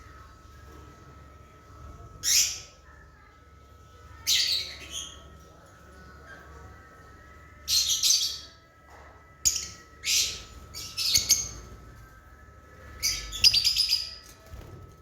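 Lovebirds giving shrill chirping calls in short bursts, about seven separate outbursts, with the loudest, most rapid cluster near the end, over a faint steady hum.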